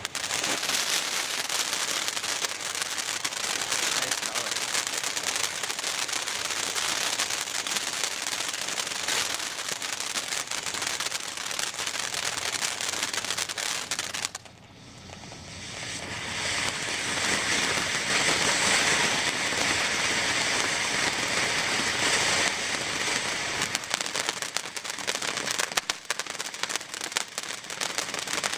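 Black Cat 500-gram fountain firework spraying with a loud, steady hiss. It drops away suddenly about halfway through, then builds back up as the next effect starts, with crackling toward the end.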